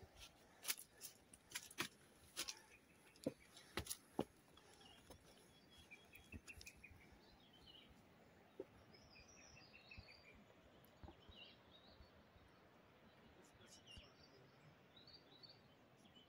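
Birds calling quietly, short chirping phrases repeated every second or two. In the first four seconds a string of sharp clicks and knocks sits over them and is the loudest sound.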